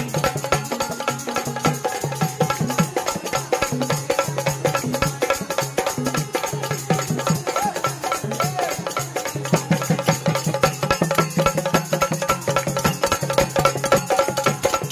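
Instrumental passage of a Marathi bhajan: a fast, even dholki rhythm over steadily held melodic notes.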